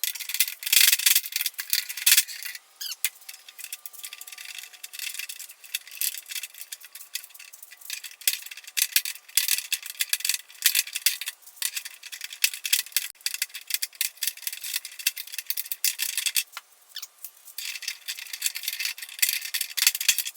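Metal tools and socket rattling and clinking against the door-handle hardware in quick, irregular bursts, sharp and high-pitched with no low rumble.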